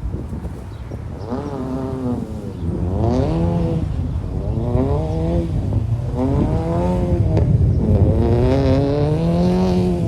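Volvo 740 Turbo's turbocharged 2.3-litre four-cylinder engine revving up and falling back about five times in a row under hard throttle on a rally run.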